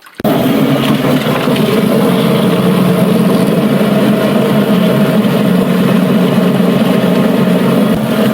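Automatic chicken plucker's electric motor switching on abruptly and running steadily, spinning the plucking drum.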